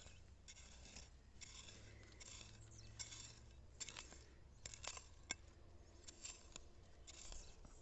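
Faint scraping and crunching of a hand digging tool cutting into soil to recover a shallow metal-detector target, in short repeated strokes with a few sharp clicks.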